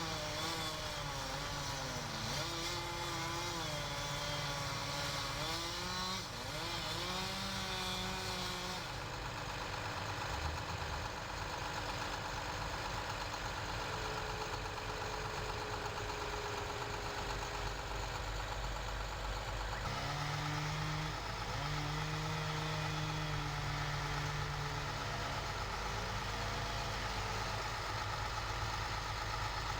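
Engine of working machinery running steadily, its pitch wavering up and down every second or two.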